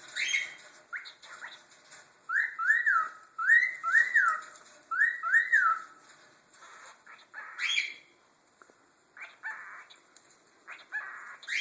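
Cockatiels whistling and chirping: three pairs of whistled notes, each rising then falling, a couple of seconds in, with short chirps before and after them.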